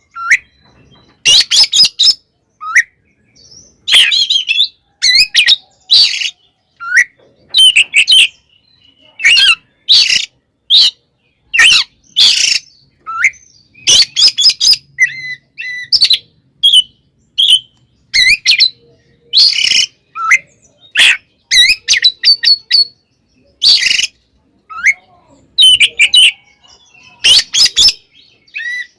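Oriental magpie-robin (kacer) singing in fighting mode: loud, rapid-fire bursts of harsh chatter and sharp whistled notes, short phrases following one another with brief gaps.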